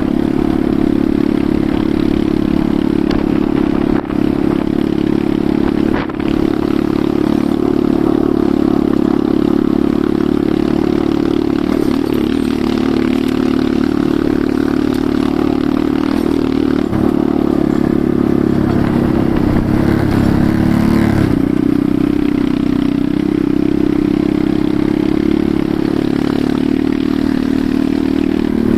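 Enduro motorcycle engine running steadily while riding, with brief shifts in engine pitch about twelve seconds in and again about twenty seconds in.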